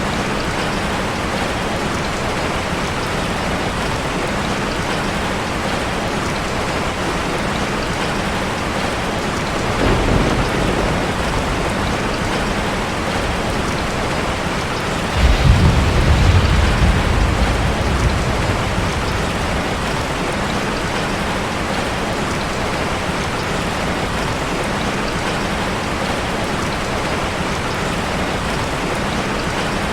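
Heavy rain falling steadily on a car. A faint low rumble comes about ten seconds in, and a louder roll of thunder starts suddenly about halfway through and fades over a few seconds.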